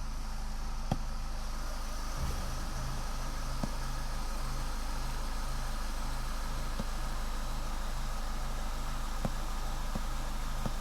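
Opel car engine idling steadily. A slow, regular low pulsing joins it about two seconds in, and there are a few faint clicks.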